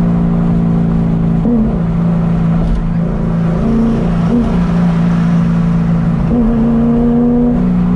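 Modified 2006 Corvette Z06's 7.0-litre V8, heard from inside the cabin while cruising: a steady drone whose pitch shifts up and down several times.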